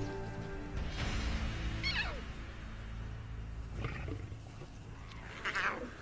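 Lion cubs calling: three high cries that fall steeply in pitch, about two seconds apart, over background music with held notes.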